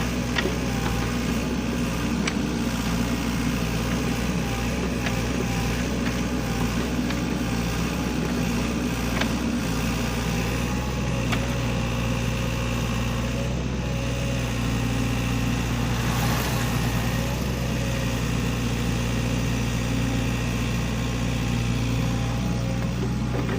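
SANY excavator's diesel engine running steadily, with a few faint clicks over it.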